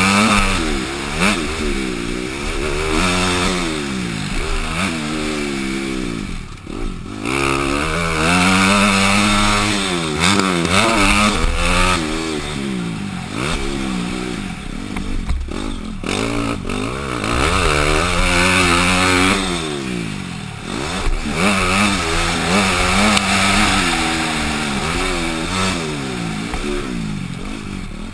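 Honda CRF250 dirt bike's single-cylinder four-stroke engine revving hard and backing off over and over as it is ridden around a motocross track, with sharp throttle cuts about six seconds in and again about twenty seconds in. It is heard from the rider's helmet camera.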